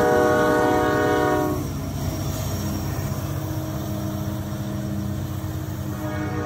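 Freight locomotive air horn sounding a steady chord that cuts off about one and a half seconds in, leaving the heavy rumble of passing diesel locomotives with wheel clatter on the rails. The horn starts sounding again right at the end.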